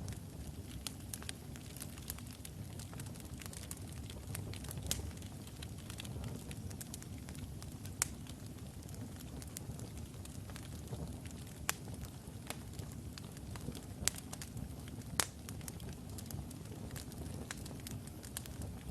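Wood logs burning in a fireplace: a steady low rumble of flame with frequent sharp crackles and pops, a few of them louder.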